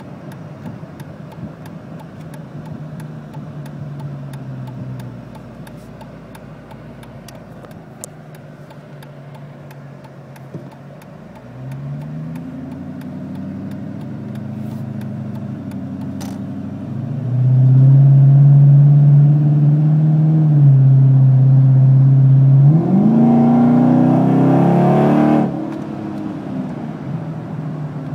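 Supercharged 5.7 L Hemi V8 of a Dodge Charger with a cat-back exhaust, heard from inside the cabin. It cruises at light throttle, then is put under hard acceleration for about eight seconds, much louder, its note climbing steeply near the end before the throttle is released and it drops back.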